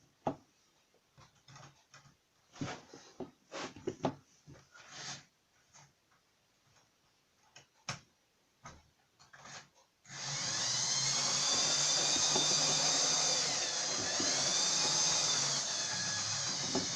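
Light clicks and knocks of model rolling stock being handled on the track. About ten seconds in, an OO gauge model train starts running close by: a loud, steady whirr of its electric motor and gears, with a whine that wavers up and down in pitch over a low hum.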